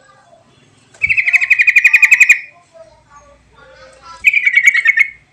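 Trucuk (yellow-vented bulbul) song recording with mimicked fill phrases, a lure sound for prompting a trucuk that is slow to sing. Two loud, fast trills at one steady high pitch, the first about a second and a half long and the second about a second, with soft chirps between them.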